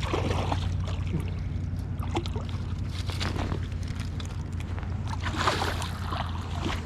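Steady rush and rumble of water pouring through a river spillway, with scattered short knocks and clicks over it.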